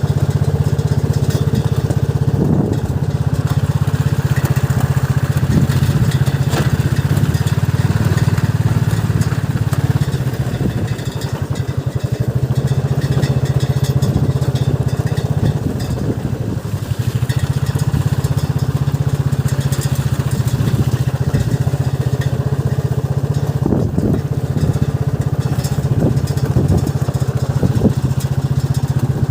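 Motorcycle engine running at a steady pitch while riding. It eases off for several seconds about a third of the way through, then picks up again.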